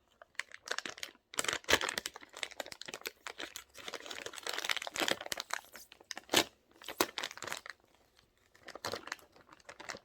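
Crinkly plastic packaging of cotton candy being handled and pulled at to get it open, with irregular crackles and rustles and a short lull near the end.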